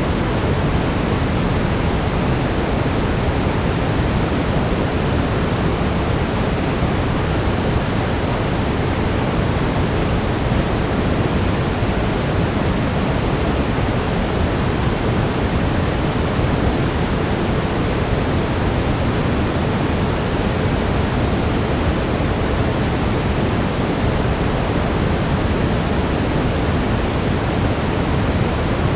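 Steady brown noise, a deep even hiss with no changes, with a faint steady tone near 432 Hz running underneath.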